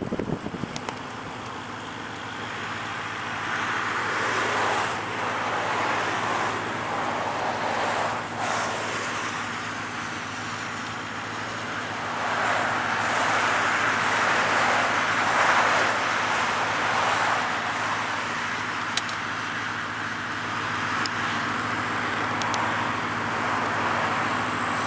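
A vehicle driving along a road: a steady low engine hum under a rushing road and wind noise that swells and eases twice.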